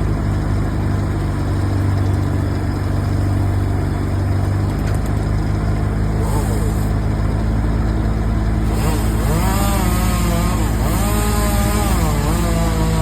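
A heavy engine, from an excavator or wood chipper, runs steadily. From about nine seconds in, a chainsaw revs up and down repeatedly as it cuts.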